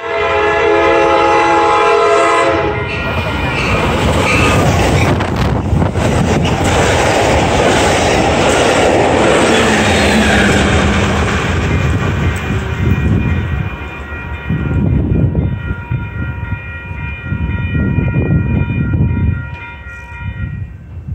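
An Amtrak Pacific Surfliner's Siemens Charger diesel locomotive sounds its horn, a chord of several tones, for about two and a half seconds. Then the train passes close by with loud rumbling and rail noise. In the second half the rush eases and a fainter, held high-pitched tone sounds until just before the end.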